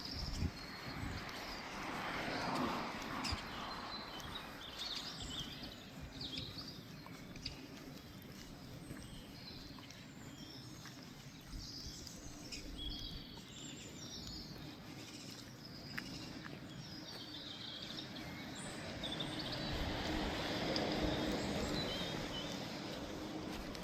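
Songbirds chirping and singing all through, over a steady low background hum. A rushing swell of noise rises around two seconds in and again near the end.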